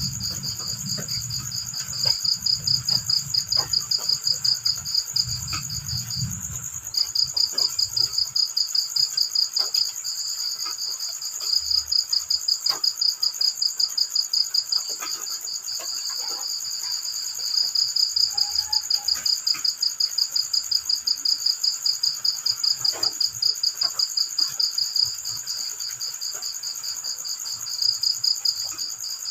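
Crickets chirping in fast-pulsed trills that come in loud runs of a few seconds with short breaks between them, over a steady, higher-pitched insect drone.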